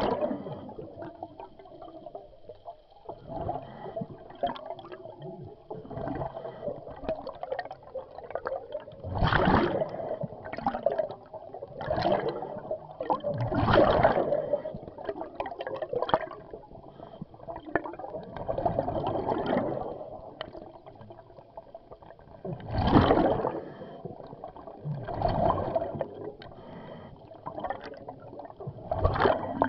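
Scuba diver breathing underwater through a regulator: gurgling rushes of exhaled bubbles repeat every few seconds, heard through the camera's underwater housing.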